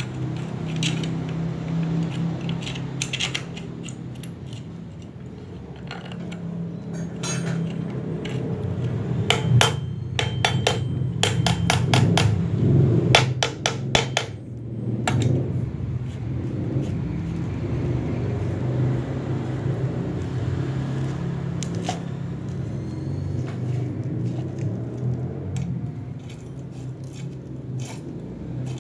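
Light taps and knocks of hand tools on a water pump's metal parts during assembly, with a quick run of sharp knocks about halfway through, over a steady low hum.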